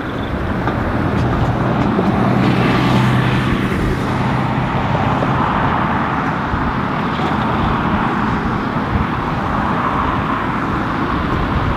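Jet airliner noise with strong wind on the microphone during a stormy crosswind landing: a loud, steady rushing, with a low hum for a few seconds near the start.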